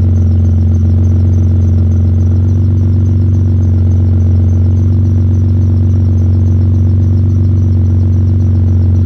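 BMW E46 engine idling steadily under the open hood, with a misfire the owner says can definitely be heard; a faint high-pitched chirp repeats a few times a second over the idle.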